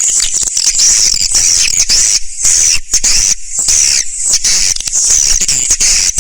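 Swiftlet calls: a dense, unbroken chatter of many high-pitched chirps and twitters, with a couple of brief breaks near the middle. This is the kind of recorded call track played to lure swiftlets into nesting houses.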